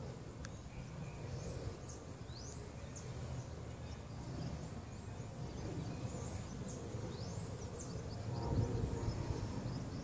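Birds chirping in clusters of quick, high, rising-and-falling notes over a steady low rumble.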